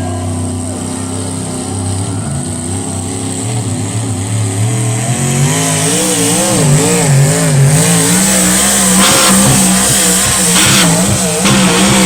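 Pulling tractor's engine under load, its revs climbing over the first few seconds. From about halfway in, the pitch wavers quickly up and down before holding steady at high revs.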